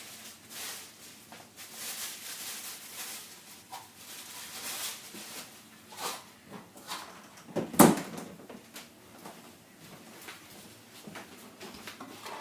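Kitchen handling sounds: scattered soft knocks and rustles, with one sharp, loud knock about eight seconds in.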